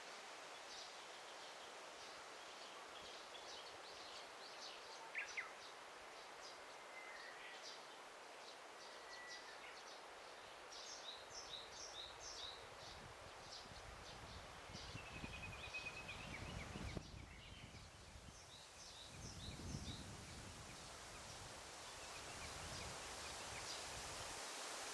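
Faint forest ambience: a steady soft hiss with many small birds chirping throughout, and a few longer whistled notes. A low rumble comes and goes through the second half.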